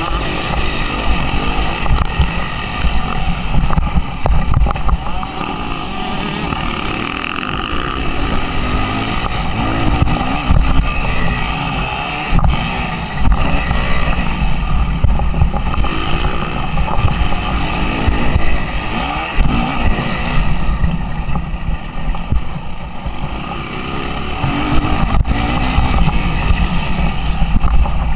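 Suzuki RM-Z 250 four-stroke single-cylinder motocross engine under riding load, its revs rising and falling repeatedly as the rider throttles on and off.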